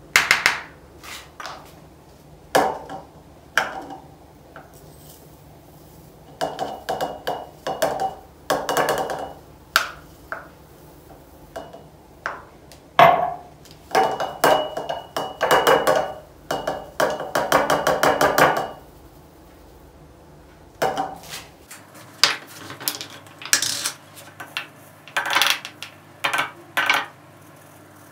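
Glass spice jars and their lids clinking and clattering as they are handled and set down, in irregular runs of sharp knocks with short pauses between, some carrying a faint high ring.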